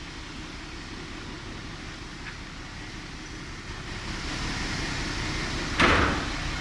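A heavy vehicle's engine running steadily, getting louder about four seconds in. A short, loud burst of noise comes near the end.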